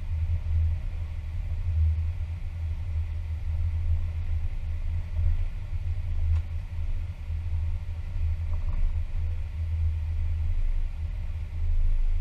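Steady low rumble inside an Airbus A320 cockpit while the airliner taxis after landing.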